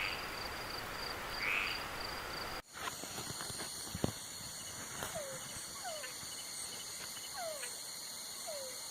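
Night chorus of frogs and insects, with a frog croaking once about a second and a half in. About two and a half seconds in, it cuts suddenly to a different night scene: steady high insect trilling and a run of short downward-sliding calls, roughly one a second.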